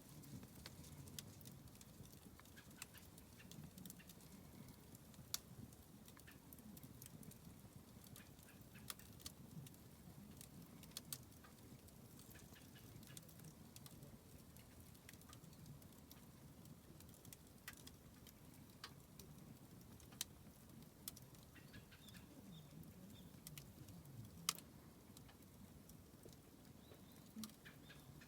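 Wood fire crackling faintly: scattered sharp pops and ticks over a low, steady rumble.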